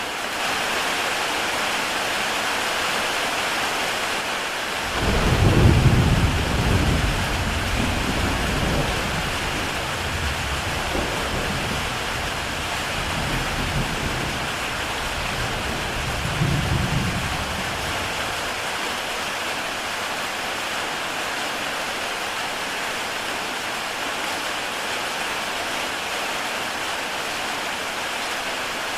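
Heavy rain falling steadily on a tile roof. About five seconds in, a roll of thunder rumbles low, swells once more midway through and dies away.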